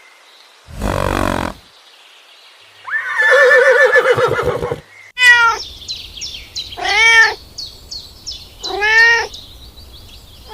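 Domestic cat meowing, three rising-then-falling meows about two seconds apart in the second half. Before them come a short noisy burst about a second in and a longer wavering call.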